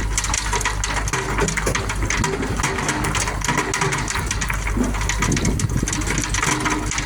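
Mobile star screen running: a steady engine drone, with stony soil clattering and rattling irregularly over the rotating star deck.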